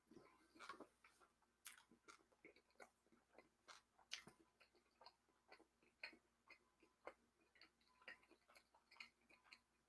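Near silence with faint, irregular wet mouth clicks of someone chewing barbecue-sauced pork, about one or two small clicks a second.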